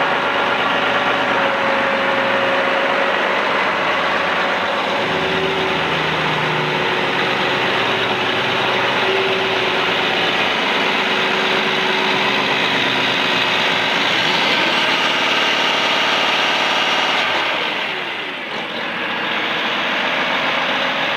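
Large diesel tractor engine of a 2018 John Deere 9570RX running steadily at idle. Near the end the engine note briefly drops and comes back up.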